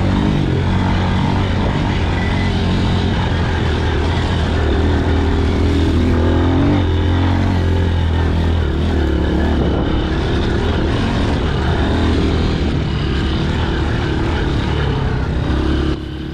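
Dirt bike engine running steadily under way, its pitch rising and falling a little with the throttle.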